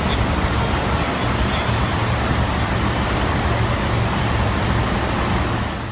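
Heavy rain pouring: a steady, loud rushing hiss with a low rumble underneath.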